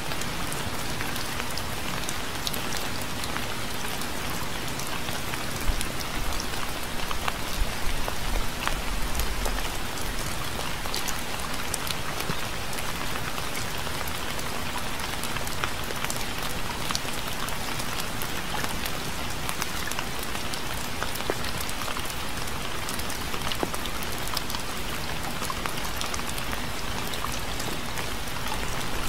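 Steady rain with many distinct drops striking a surface close by, and a short low rumble about six to ten seconds in.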